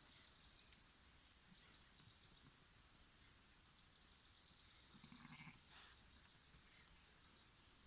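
Near silence: faint natural ambience with a faint, rapidly pulsed high trill that comes and goes, and a short soft sound about five seconds in.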